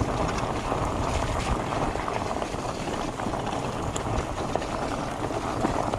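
Fat bike riding on a wet, muddy trail: a steady rushing noise of tyres through mud and wind on the microphone, with scattered small clicks and rattles.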